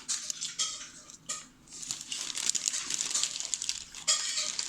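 Paper crinkling and rustling close up, with short crackles and clicks, as folded paper is handled, trimmed and taped. It grows busier and denser about two seconds in.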